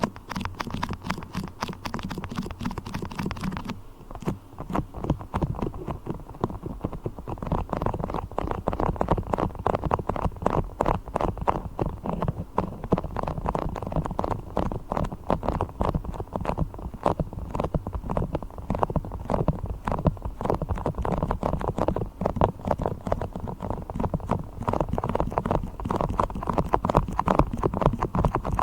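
Beeswax being handled as an ASMR trigger: a fast, dense stream of sticky tapping and crackling. It turns duller about four seconds in.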